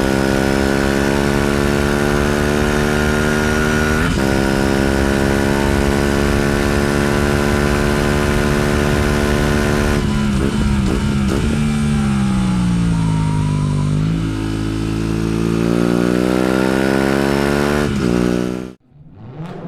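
Aprilia RS 457's liquid-cooled parallel-twin engine under acceleration, its pitch climbing steadily with a sharp drop at an upshift about four seconds in. Later the revs fall away as the bike slows and then rise again, until the sound cuts off suddenly near the end.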